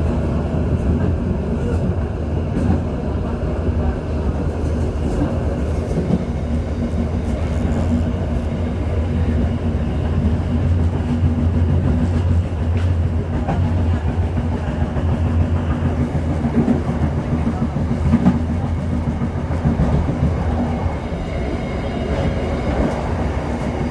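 Majapahit passenger train running steadily along the track, heard from aboard: a continuous low rumble of wheels on rail with occasional faint clicks.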